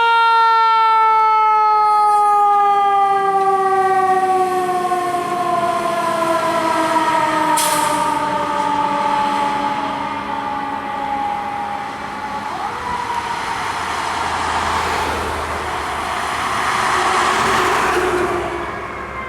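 Fire engine siren in a long, slowly falling wail that winds down over about twelve seconds. After that the truck's engine and road noise take over, loudest a few seconds before the end.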